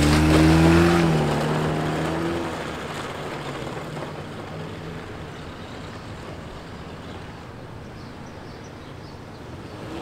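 Chevy Aveo's four-cylinder engine revving up as the car pulls away, its pitch rising through the first second, then fading steadily as the car drives off into the distance. Right at the end the engine grows louder again.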